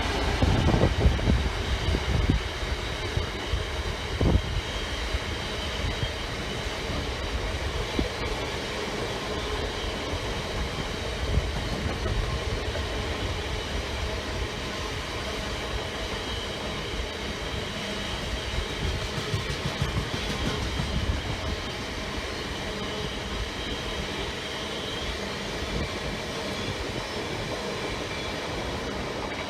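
A train passing close by: steady wheel rumble and clatter over the rail joints, loudest with sharp knocks in the first few seconds, then an even rolling noise.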